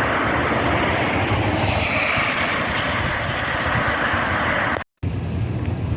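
Strong wind on the microphone: a steady rushing hiss over rough, buffeting rumble, broken by a split-second gap near the end.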